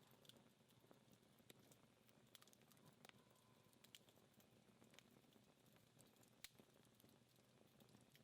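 Faint, sparse crackling of a dying wood fire: small irregular pops and ticks from the burning-down logs and embers, roughly one a second, with a slightly louder pop about six and a half seconds in.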